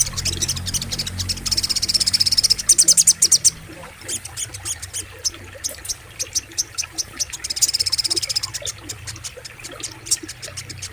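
Little spiderhunter (sogok ontong) calling in rapid trains of sharp, high chips, with two dense fast trills about two seconds in and again near eight seconds, over a low steady rumble.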